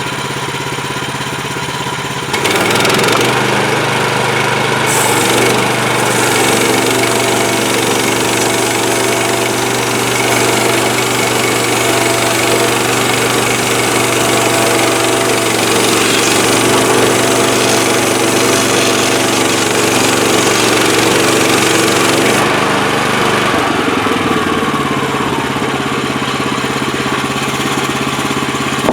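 Portable bandsaw mill's engine idling, then throttled up about two seconds in to run the band blade at full speed with a loud steady hiss for about twenty seconds, before winding back down to idle near the end.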